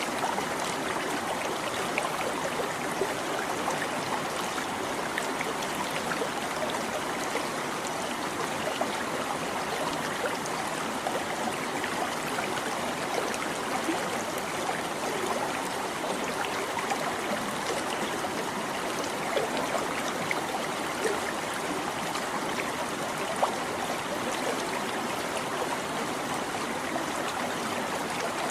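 A small stream babbling over rocks: steady rushing water with constant small trickling splashes.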